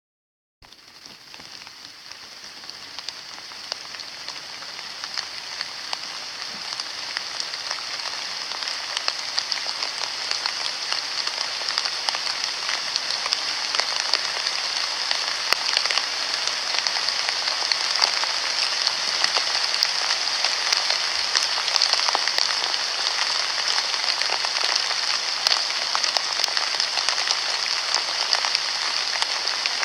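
Rain falling: a dense, steady hiss of drops with scattered sharper patters, fading in over the first several seconds and then holding steady.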